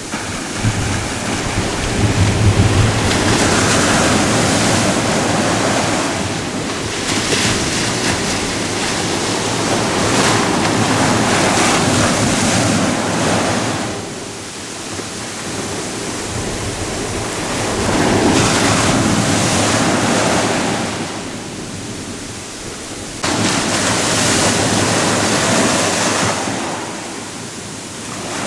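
Ocean waves breaking and washing up the shore: a loud, even rushing of surf that swells and ebbs in long surges, several over the stretch, with one wave coming in suddenly near the end.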